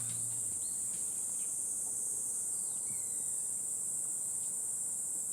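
Insects buzzing in a steady, high-pitched drone, with a few short, faint chirps.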